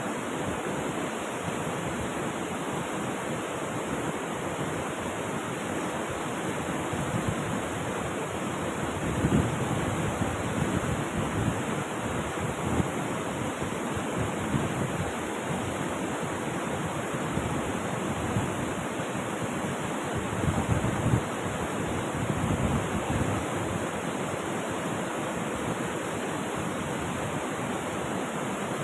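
Rushing river water: a steady wash of noise, with a few louder, deeper surges about ten seconds in and again about twenty seconds in.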